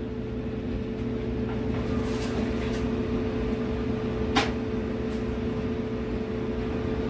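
Clothes dryer running: a steady motor and drum hum with a low pitched tone, and one sharp click about four and a half seconds in. It tumbles but blows cold: the heat is not working.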